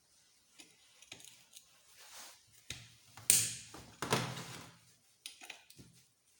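Hand tools and engine parts being handled during motorcycle engine disassembly: a string of light clicks and clinks, with two louder knocks in the middle.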